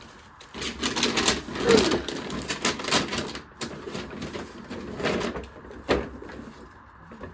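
Rustling and handling noises of gift boxes and packaging being moved about, with scattered clicks and a sharp knock about six seconds in.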